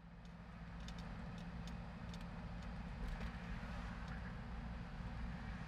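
Car on the move: a steady low rumble of engine and road noise, with scattered light ticks.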